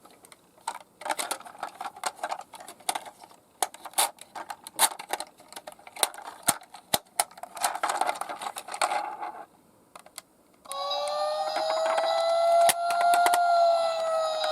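Rapid, irregular clicking and rattling of miniature toy cars rolling down a slope. After a brief lull, near the end a siren starts up and wavers slowly up and down.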